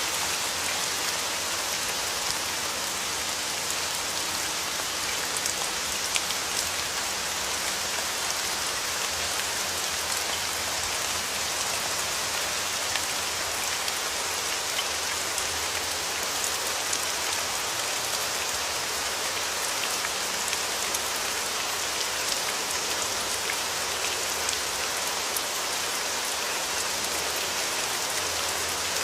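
Steady rain falling: an even hiss with scattered ticks of single drops, no thunder.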